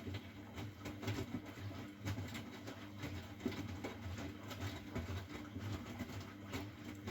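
Miele Novotronic W912 front-loading washing machine running a wash cycle: a steady motor hum with irregular knocks and water-like patter from the turning drum.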